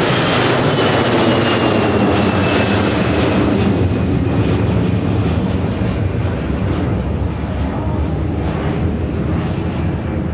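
Jet airliner's engines passing close by as a loud roar, with a high whine that falls in pitch over the first few seconds. The noise then eases slowly as the aircraft moves away.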